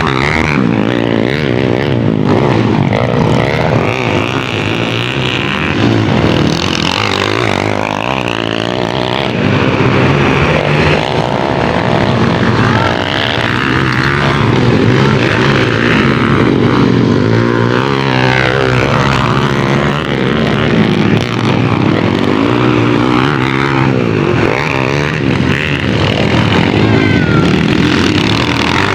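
Several motocross racing motorcycles running together around the track, their engines revving up and dropping back over and over, with overlapping pitches.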